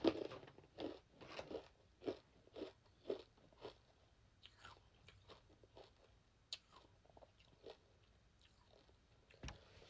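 Mouth chewing a cluster of freeze-dried sour candy: crisp crunches about two a second, loudest in the first few seconds, then fading to faint occasional ones as the candy breaks down.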